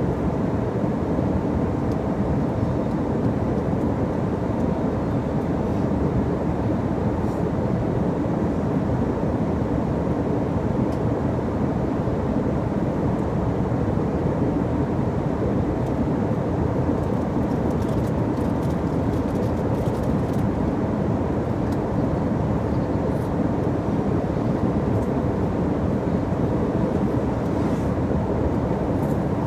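Airliner cabin noise: the steady, even rumble of the engines and airflow, with no change in pitch or level.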